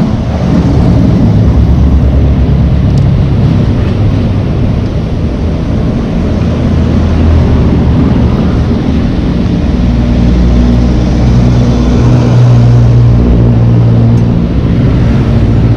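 Small two-stroke gas scooter engine running at a steady cruising speed, its pitch shifting slightly, under heavy wind rush on the microphone.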